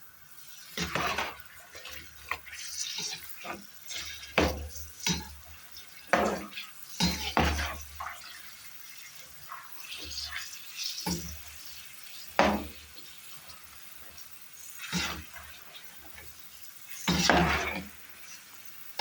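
Cooking utensil knocking and scraping against a pan of hot oil, in irregular clinks and knocks with dull thumps, as the deep-frying snacks are stirred and turned.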